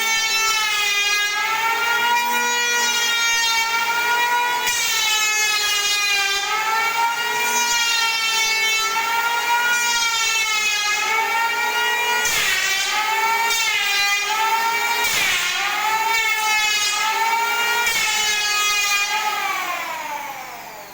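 Electric power tool motor running at high speed, its pitch dipping and recovering over and over as it is loaded against the work. Near the end it is switched off and the pitch falls smoothly as it spins down.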